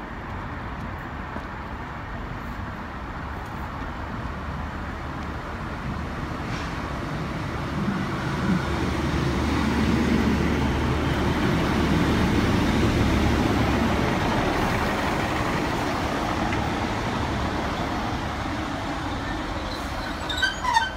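ScotRail Class 156 diesel multiple unit arriving at a station platform: diesel engine hum and wheel-on-rail noise growing louder as it draws past, then easing as it slows. A few short high squeals near the end as it comes to a stop.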